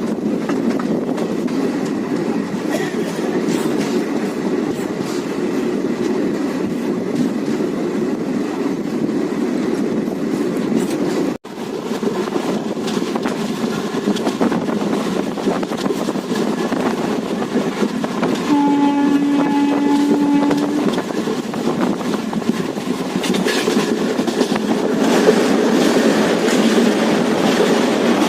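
Passenger train running, a steady rumble with wheel clatter on the rails heard from aboard. About two-thirds of the way through, the locomotive horn sounds one steady blast of about two seconds.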